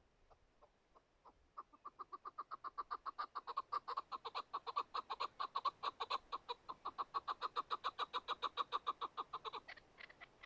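Chukar partridge calling: a fast run of clucking "chuck" notes, about seven a second, starting about one and a half seconds in and breaking off near the end.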